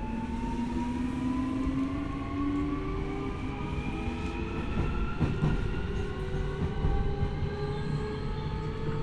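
Keio 1000 series electric train heard from inside the car: the inverter and traction motor whine is several tones climbing slowly in pitch as the train gathers speed, over a steady rumble of wheels on rail. A few rail-joint clacks come about five seconds in.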